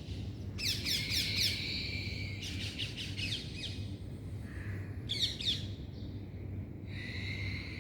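Birds calling: several quick runs of short falling chirps, with a couple of held whistled notes between them.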